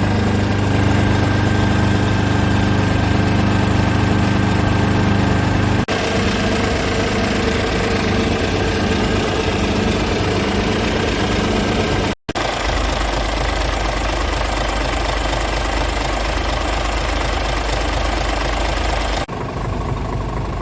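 Scania S tractor unit's diesel engine idling steadily. The sound changes abruptly about six seconds in, drops out for a moment about twelve seconds in, and changes again near the end.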